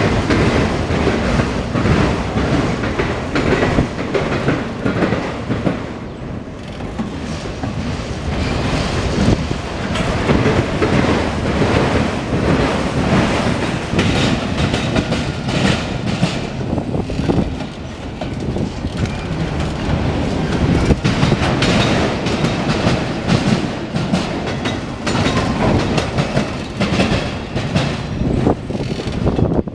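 Freight train of autorack cars rolling past, its wheels clacking over the rail joints in a steady run of clicks and rumble.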